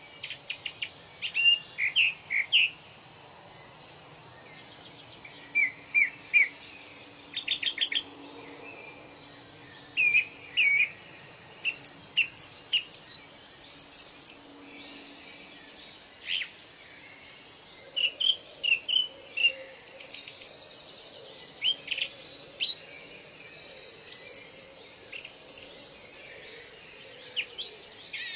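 Wild birds calling: short, high chirps and trills in quick groups of two to four notes, coming every second or two, over a faint steady background of ambient noise.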